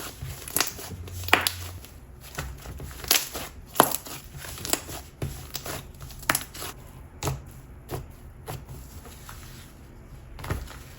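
Hands squishing and popping a soft wood glue slime, making wet, sticky pops and crackles about once a second at an uneven pace, with fewer pops near the end.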